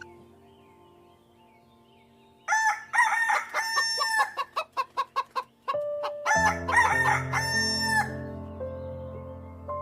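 Rooster crowing twice, each crow a long call with a rise and fall in pitch, with short clucks between the two crows. Steady background music sits underneath, with low tones coming in with the second crow.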